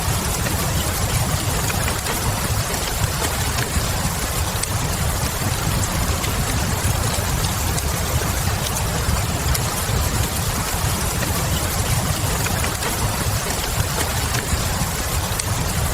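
Wood fire crackling with scattered faint pops over steady rain, mixed into one continuous hiss with a low rumble beneath.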